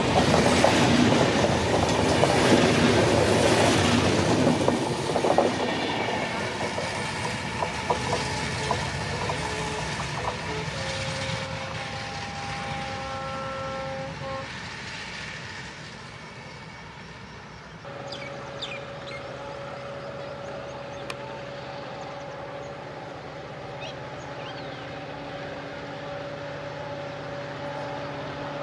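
Express train coaches rushing past close by, their wheels clattering rhythmically over the rail joints, fading away as the tail of the train recedes. About eighteen seconds in, this gives way to the steady, quieter drone of an approaching WDP4D diesel locomotive's EMD two-stroke engine, with a few bird chirps.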